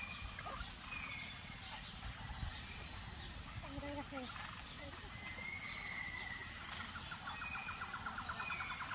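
Birds calling over steady outdoor background noise: scattered short whistled notes, one longer whistle past the middle, and a fast rattling trill near the end. A brief low call or distant voice about four seconds in.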